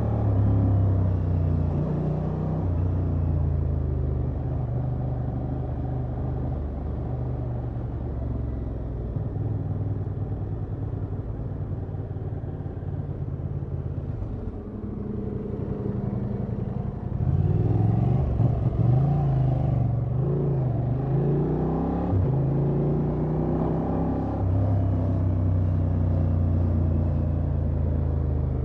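Honda XL750 Transalp's parallel-twin engine through its stock exhaust, riding at a steady pace. About two-thirds of the way through it gets louder and its pitch rises and falls several times as the throttle is worked, then it settles back to a steady note.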